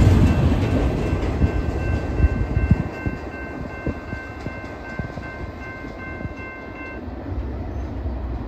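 Double-stack intermodal well cars rumbling and clacking past on the rails, the rumble fading as the end of the train moves away. A grade-crossing bell rings steadily over it and cuts off suddenly about seven seconds in.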